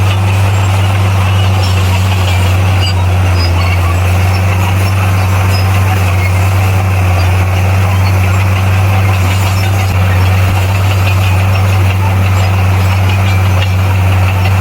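Bulldozer's diesel engine running steadily, a deep even drone that holds the same pitch throughout.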